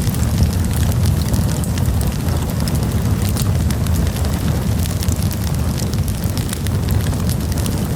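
Wood campfire burning, with a steady low roar of flames and frequent sharp crackles and pops from the burning wood.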